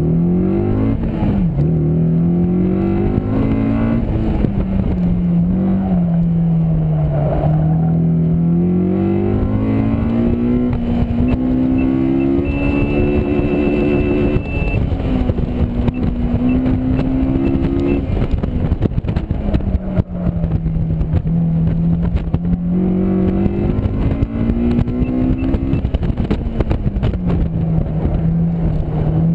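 Honda S2000's four-cylinder engine running hard at high revs, its pitch climbing and dropping again and again as the car accelerates, lifts and shifts through an autocross course.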